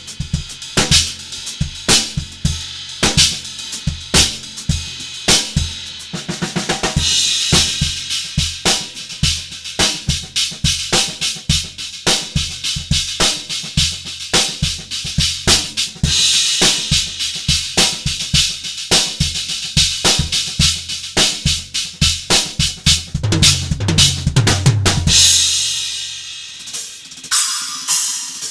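Drum kit played in a steady groove with Omete cymbals: regular kick and snare hits, with a cymbal crash every several seconds. Near the end a tom fill leads into a crash that is left ringing as the drumming stops.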